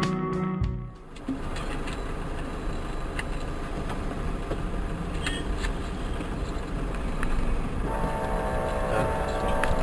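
A short burst of guitar music cuts off about a second in. Then a vehicle's steady running noise, with a steady horn-like tone coming in near the end.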